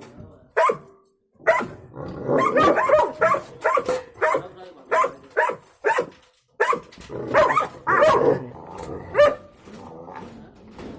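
A Pakistani bully dog (Bully Kutta) barking over and over, a few barks at a time with short pauses between.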